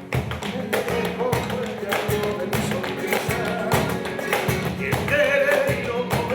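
Flamenco-style music from a live band: plucked guitar over a quick, sharp percussive beat, with held melodic lines above.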